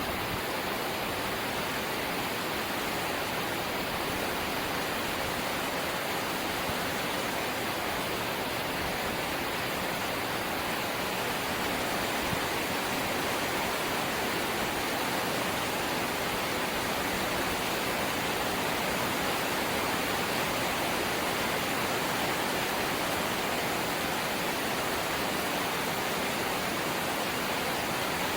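Rain falling steadily on a corrugated zinc sheet roof, an even, dense hiss of drops on metal.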